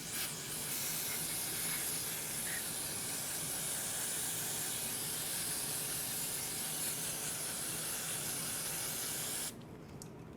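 Aerosol carburetor cleaner sprayed in one long, steady hiss onto the outside of a lawnmower carburetor to wash off dirt, cutting off suddenly near the end.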